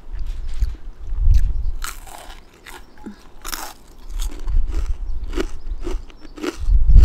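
Close-up crunching and chewing of a home-made fried pita chip, a run of irregular crisp crunches. A low rumble of wind on the microphone comes and goes underneath.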